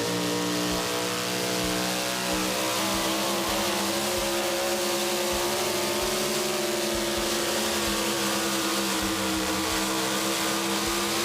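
Four-wheel-drive pulling truck's engine held at full throttle and high revs, its pitch steady with slight wavering as it pulls the sled down the track. Right at the end the pitch starts to fall sharply as the engine comes off the throttle.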